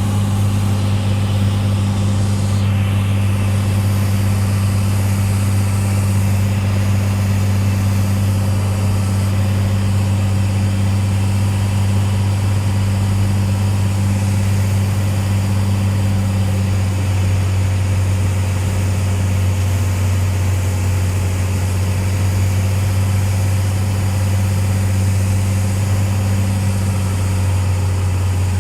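Cessna 182's piston engine and propeller droning steadily, heard from inside the cabin in flight.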